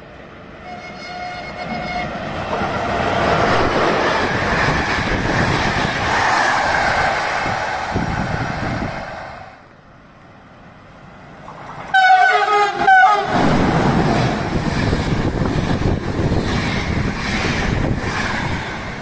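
Trains passing at speed, a loud running rumble of wheels on rail that fades out near the middle and builds again. About twelve seconds in, a locomotive horn sounds one short blast of about a second, the loudest sound, given as the driver's greeting.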